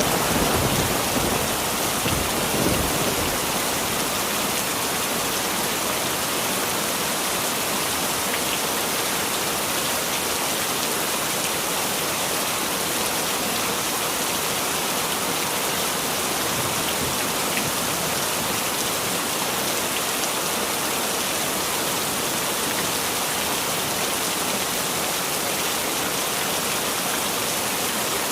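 Heavy rain falling steadily, an even hiss. A low thunder rumble dies away over the first few seconds.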